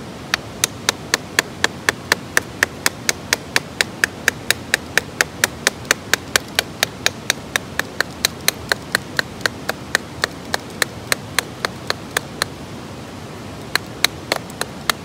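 Rapid, even wooden knocks, about four a second, of a stick striking the back of a knife blade to split kindling (batoning). They stop briefly near the end, then a few more strikes follow.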